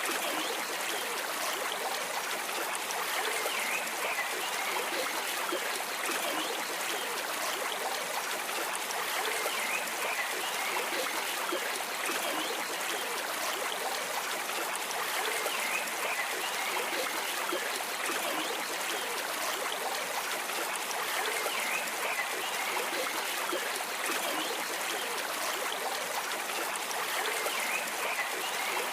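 A stream of water flowing and trickling steadily, as a continuous rushing hiss.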